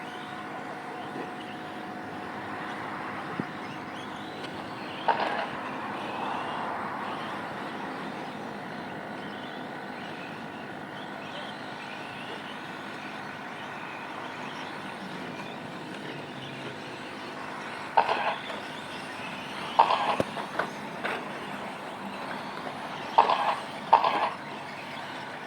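4wd short course RC trucks racing, their electric motors giving a steady whine. Several sharp impacts cut through: one about five seconds in and a cluster of them near the end.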